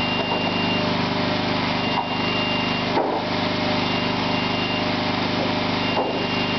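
Engine of a Hinowa tracked machine running steadily, with an electronic warning beeper sounding about one second on, one second off.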